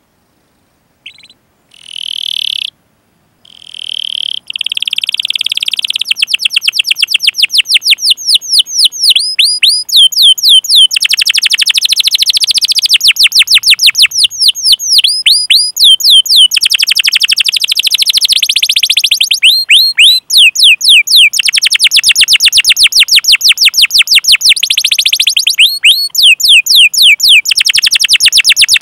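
Domestic canary singing: a few short call notes, then long rolling trills of very rapid, evenly repeated down-slurred notes, high-pitched and loud, broken by brief pauses.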